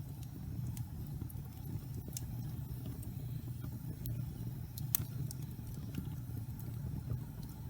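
Wood fire burning in a fireplace: a steady low rumble of the flames with scattered sharp crackles and pops, the loudest about five seconds in.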